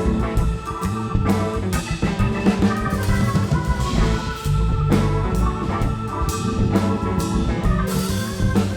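Live rock band playing an instrumental passage: drum kit keeping a steady beat under held organ chords, with guitar and bass.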